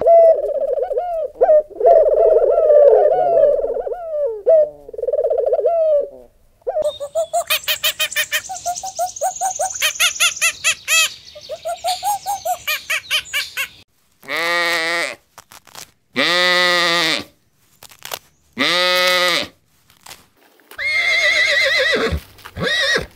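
A run of animal calls. First, several seconds of low, wavering cooing from rock pigeons. Then a fast series of short calls, about four a second, followed by three separate long calls of about a second each. Near the end a horse whinnies.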